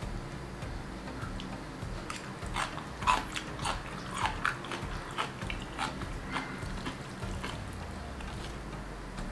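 Close-up chewing of a mouthful of spicy instant noodles: a run of short wet mouth clicks and smacks, about a dozen, from about two seconds in until near the end.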